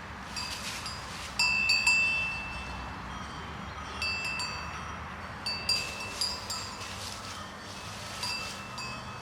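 Small metal bells ringing with irregular strikes, a dozen or so clear, high chiming tones that overlap and ring on for a moment each.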